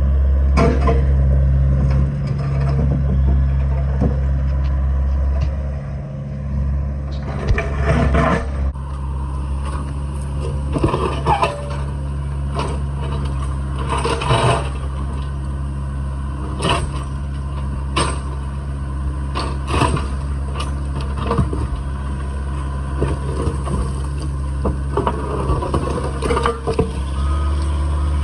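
Heavy equipment engine running steadily under load, with scattered knocks, scrapes and crunches of broken concrete slabs being dug up and moved.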